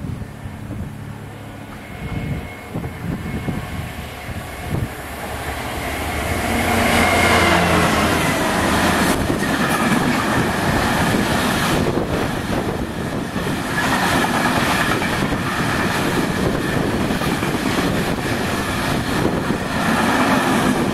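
A train passing close by: a low engine note at first, then a louder rush of wheels on rails, with sharp clicks over the rail joints.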